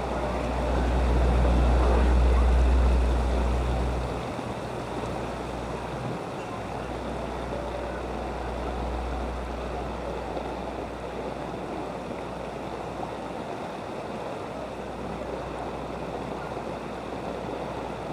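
Steady rushing noise of a flooded street, with a low rumble that swells and fades over the first few seconds.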